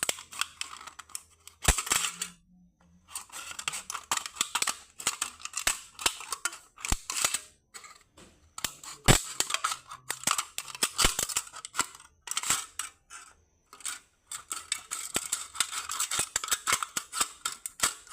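Scissors snipping through a thin aluminium beer can: quick runs of sharp clicks and crinkly cuts, broken by brief pauses.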